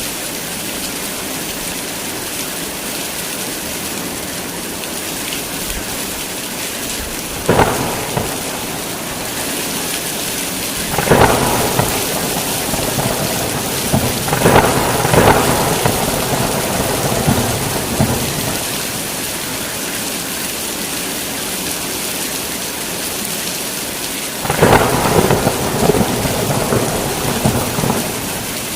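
Heavy rain falling steadily, with several claps of thunder: a short sharp one about seven seconds in, then longer rumbling peals from about eleven to sixteen seconds and again from about twenty-four seconds until near the end.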